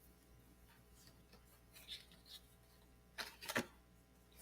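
Near silence in a small room, broken by a few faint clicks: two soft ones about halfway through and two sharper ones close together near the end.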